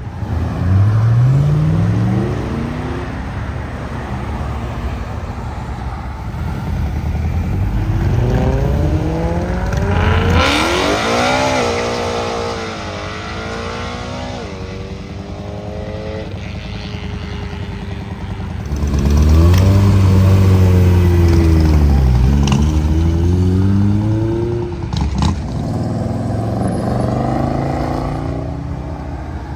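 Classic and muscle cars accelerating away one after another, their engines revving up and shifting through the gears. The loudest pull-away comes about two-thirds of the way in.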